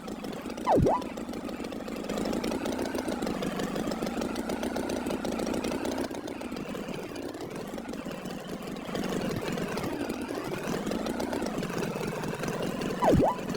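Tractor engine running steadily at idle. Twice, about a second in and again near the end, a short sharp sound sweeps down in pitch over it, louder than the engine.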